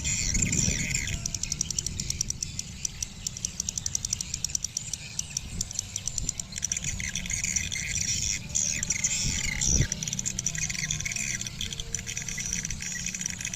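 Swiftlets chirping, with rapid clicking trains, layered in many overlapping calls. A steady low rumble runs underneath, with one brief thump near the end.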